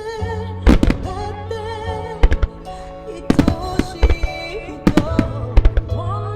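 Starmine aerial fireworks bursting in quick clusters of sharp bangs, over music played for a fireworks display synchronised to music.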